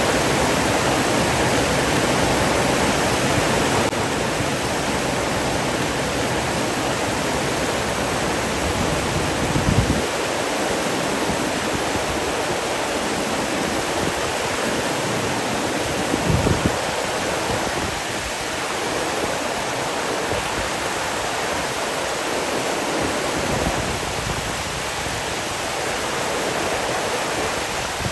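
Steady rushing water, like a waterfall or fast stream, an even hiss with no pauses. Two brief low rumbles stand out, about ten seconds in and again around sixteen seconds.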